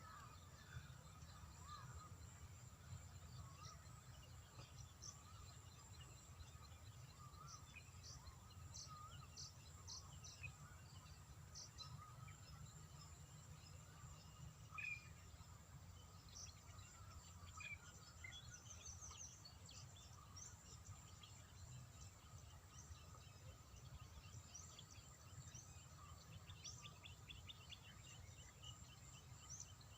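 Near silence: faint outdoor ambience, a low steady rumble with scattered short bird chirps and a brief fast chirring near the end.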